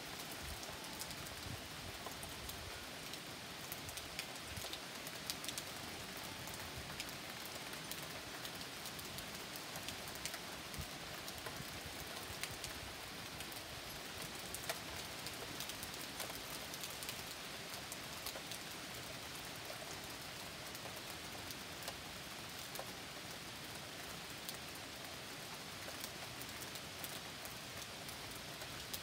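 Rain falling steadily in a thunderstorm: an even hiss with many sharp ticks of individual drops striking close by.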